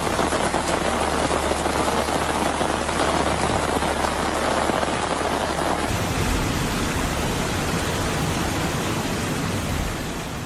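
Heavy rain pouring down in a steady, dense hiss, with a change in its low rumble about six seconds in.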